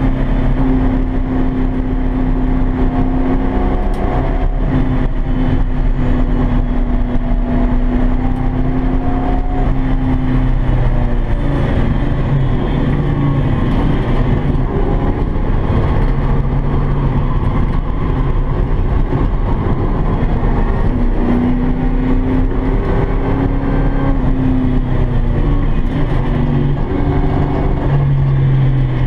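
Ford Fairmont's small-block V8 heard from inside the cabin under hard track driving, its pitch holding steady for stretches, dropping about eleven seconds in and climbing again past twenty seconds.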